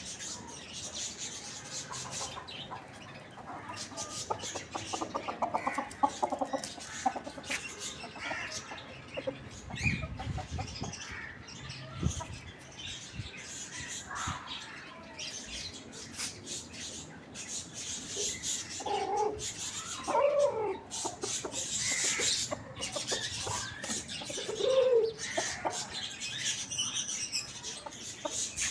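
Chickens, a rooster and a hen, clucking on and off in short calls, with some louder bent-pitch calls in the second half.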